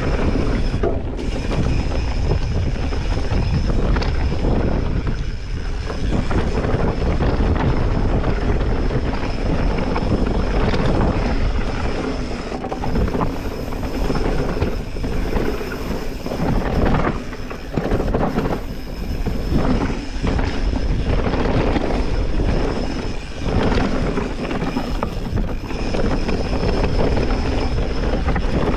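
Mountain bike ridden fast down a dirt bike-park trail, heard from a camera mounted on the rider: a constant rush of tyre and wind noise on the microphone, broken by many short knocks and rattles as the bike hits bumps.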